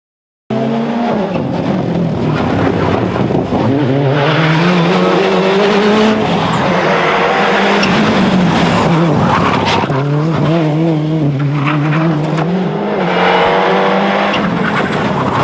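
Toyota Corolla WRC rally car's 2.0-litre turbocharged four-cylinder engine at full load, cutting in suddenly about half a second in. The engine note climbs and drops several times as the car is driven hard through the gears.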